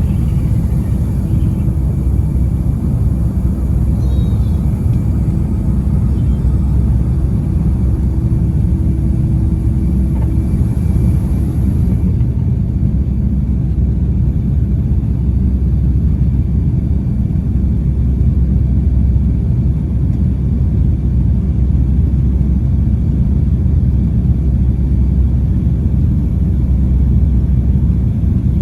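Steady low rumble of a Boeing 757-200's engines and airflow, heard from inside the economy cabin.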